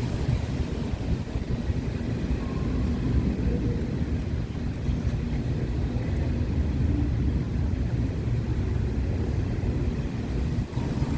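Train running with a steady low rumble, with wind buffeting the microphone.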